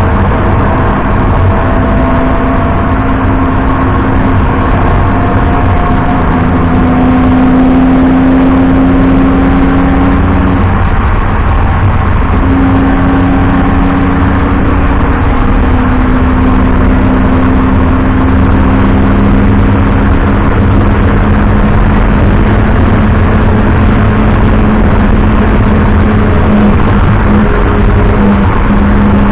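BMW 330i E90's straight-six engine running under load, its note climbing slowly, over heavy low road and tyre rumble. The engine note breaks off for a moment about eleven seconds in and then picks up again.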